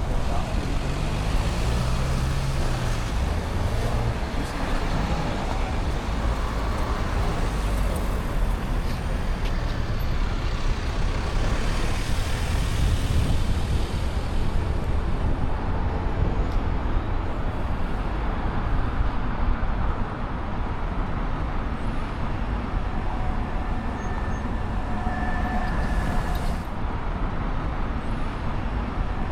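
City street traffic: a steady rumble of passing cars, trucks and buses.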